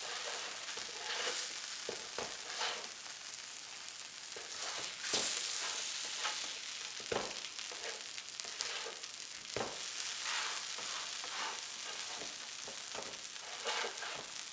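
Cheese arepas sizzling in butter on a flat griddle, a steady frying hiss. A metal spatula scrapes and knocks against the griddle several times as the arepas are lifted off.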